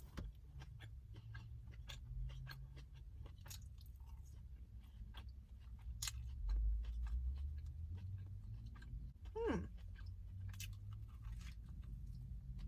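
A person chewing a mouthful of steak sandwich, with many small wet mouth clicks. About nine and a half seconds in there is a brief falling vocal sound.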